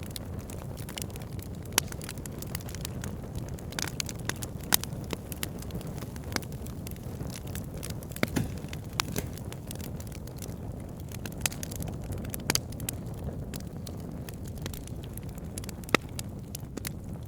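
Burning wood logs crackling: a steady low rush of flames with frequent irregular sharp crackles and pops, a few of them much louder than the rest.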